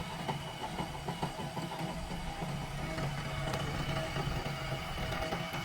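Heavy diesel engine running at a steady speed, with a steady whine over its low drone.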